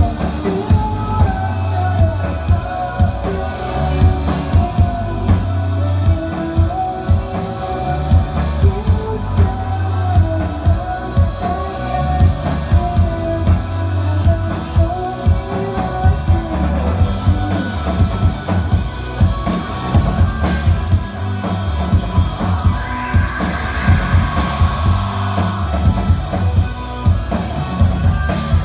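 Live rock band playing: a drum kit keeps a steady beat under electric guitars and bass, with a melodic lead line over the top.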